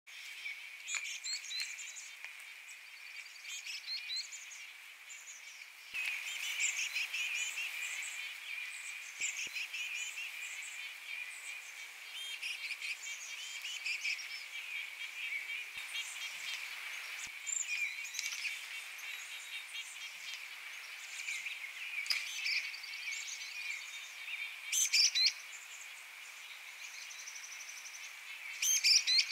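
Small songbirds chirping and calling over and over in quick high notes and short trills, over a steady high-pitched hum, with a few louder calls near the end.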